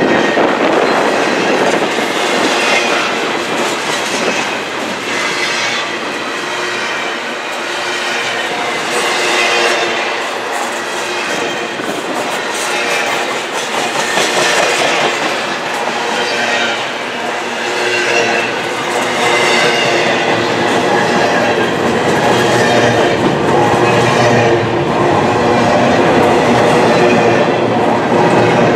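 Freight train's empty intermodal well cars rolling past: a continuous clatter of steel wheels over the rails, with high metallic ringing and squeal from the wheels that comes and goes.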